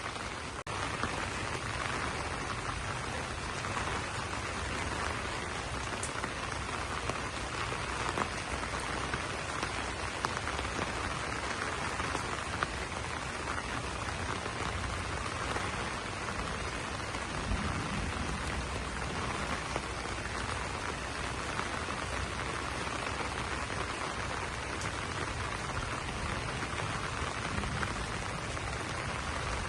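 Steady rain falling on banana leaves: an even patter with occasional sharper drop hits.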